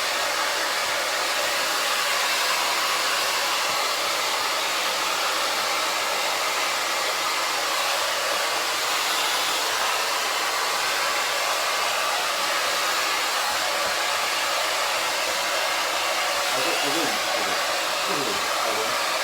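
Hair dryer blowing steadily on high, an even rushing noise that doesn't change.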